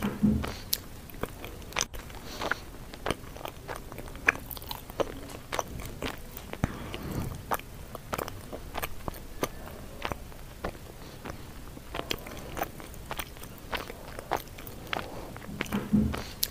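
A person biting into a fresh red chili pepper and chewing a mouthful of food: an irregular, continuous run of crunches and small mouth clicks, a little stronger right at the start and again near the end.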